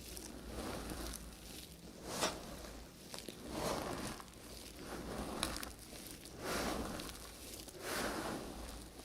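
Knife cutting through bars of soap: a series of soft scraping, crunchy cuts about one a second, with a couple of sharp clicks of the blade.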